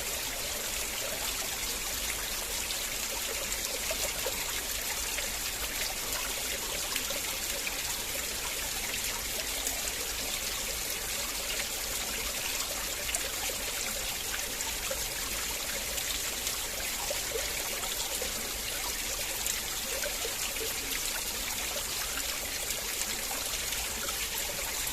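River water flowing and trickling in a steady, even rush, with fine splashing flickers throughout.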